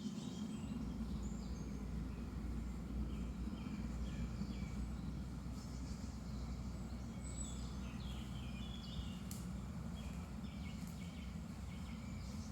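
Morning chorus of several woodland songbirds, short chirps and whistling phrases overlapping throughout, over a steady low rumble.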